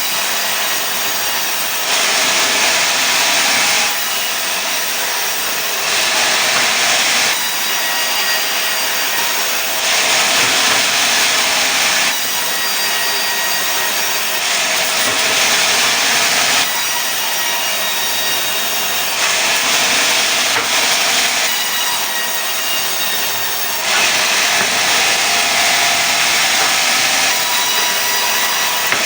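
Sawmill saw cutting pine: a continuous sawing noise, mostly high in pitch, that steps up and down in level every two seconds or so.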